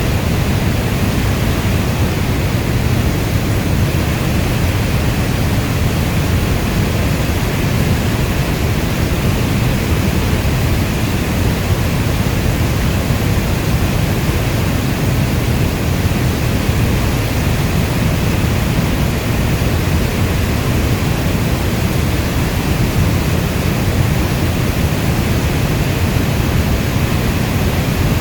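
Steady heavy rain, a dense, even rush of sound weighted toward the low end, with no separate drops or thunder standing out.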